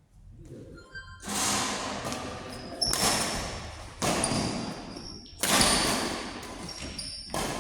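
A rally in an indoor court: five sharp hits, roughly one every one to two seconds, each echoing in a large hall, with short high squeaks between them.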